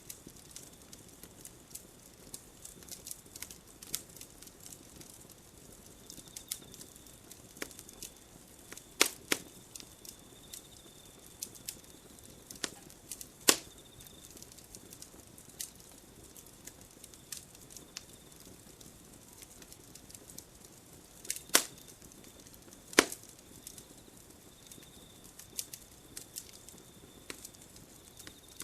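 Campfire crackling: a steady run of small sharp pops and snaps from the burning wood, with a few much louder single cracks, two close together about halfway through and two more near the three-quarter mark.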